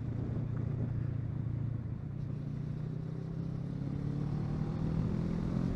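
Kawasaki Versys 650's parallel-twin engine running under way over a rush of wind noise, its pitch rising gradually over the last few seconds as the bike speeds up.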